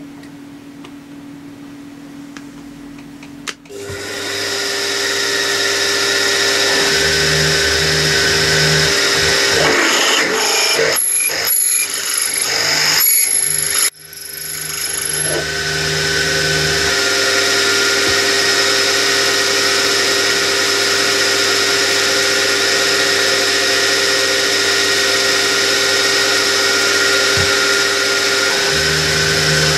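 Small bench drilling machine's motor starting with a click about three and a half seconds in and running up to a steady whine while a 7 mm drill is fed through the workpiece. Rough, irregular cutting noise comes from about ten to fourteen seconds in, then the motor drops out and comes back up to speed, running steadily on.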